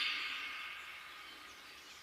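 Forest ambience: the echo of a songbird's loud phrase fades away in the first second, leaving a soft steady hiss with faint, distant bird chirps.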